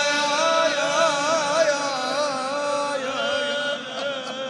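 A man's solo voice in Persian devotional singing (maddahi), drawing out the last syllable of a line in a long wordless run with wavering pitch ornaments. It grows quieter near the end.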